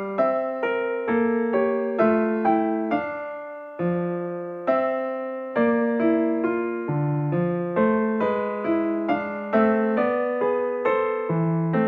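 Background music: an electric piano playing a simple, steady melody of struck notes that each fade away, with a short pause about four seconds in.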